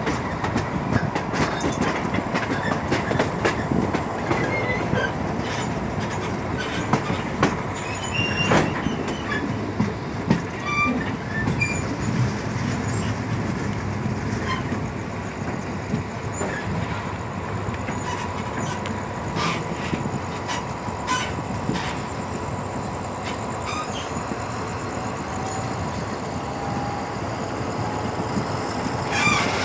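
Passenger train running on the rails, its wheels clacking over rail joints in irregular sharp clicks above a steady rumble, with a thin steady squeal. The clicks come less often in the second half as the train comes into the station.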